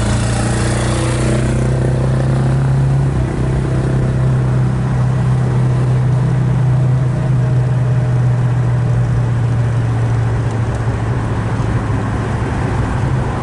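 Ford 289 V8 with dual exhaust running steadily under way in second gear, a low even drone. A hiss in the first couple of seconds fades out.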